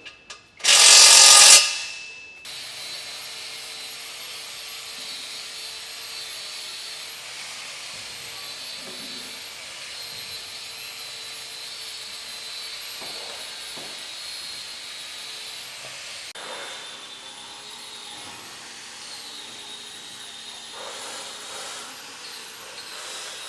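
A power tool gives a short loud burst about a second in. After it a machine motor runs steadily, with a thin whine that wavers slightly in pitch.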